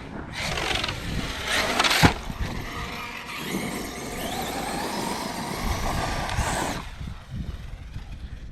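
Arrma Kraton 6S RC truck with a Hobbystar 4092 1730kv brushless motor being driven hard: a motor whine rising and falling in pitch over tyre and drivetrain noise. A sharp impact about two seconds in is the loudest moment, and the run dies down about seven seconds in.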